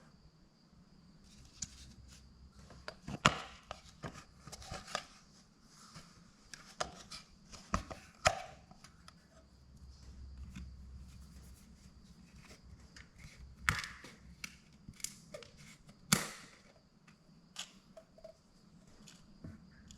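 Hand tools and metal parts being handled, clinking and knocking irregularly, with a few sharper knocks standing out, over a faint steady high whine.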